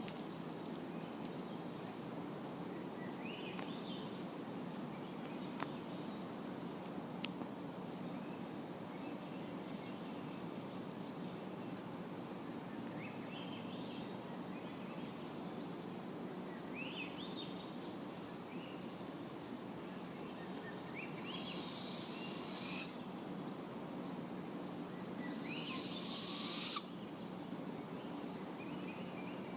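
Barred owl giving two harsh, hissing screeches about four seconds apart in the last third, each about a second and a half long and rising in pitch at the end. Faint short chirps of small birds come and go beneath.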